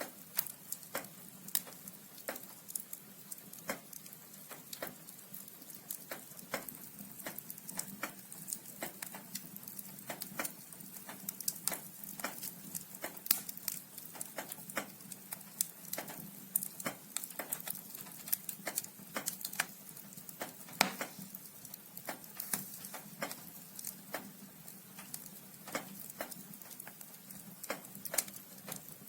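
Burning firewood in a fireplace crackling: irregular sharp pops and snaps over a faint hiss, with a few louder pops.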